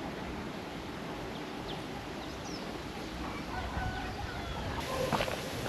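Domestic fowl calling, with a few short calls near the end, over faint high chirps of small birds.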